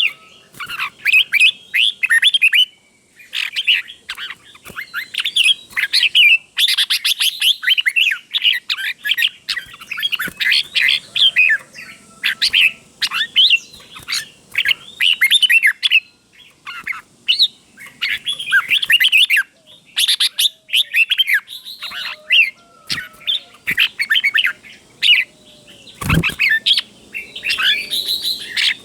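Red-whiskered bulbul song: quick, bright warbled phrases repeated one after another with short pauses. A dull thump is heard near the end.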